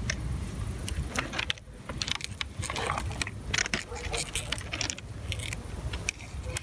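Irregular small metallic clicks and rattles of hands handling wire leads and connectors, over a steady low rumble.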